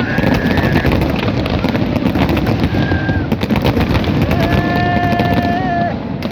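Fireworks display going off in a rapid, continuous barrage of crackling bangs over a deep rumble. A few held tones sound over it, the longest from about four and a half seconds in to near the end.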